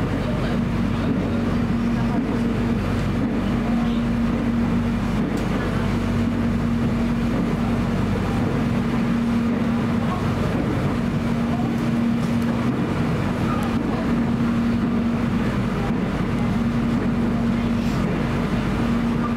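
Cabin noise of a Soekarno-Hatta Airport Rail Link electric train running at speed: a steady rumble of wheels on track under a constant low hum.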